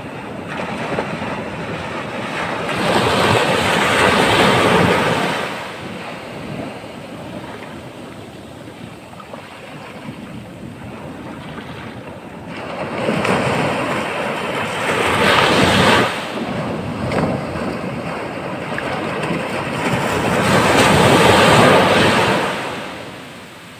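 Rough Indian Ocean surf at high tide: waves breaking and washing up the shore, in three big surges a few seconds in, around the middle and near the end, with lower rushing water between them.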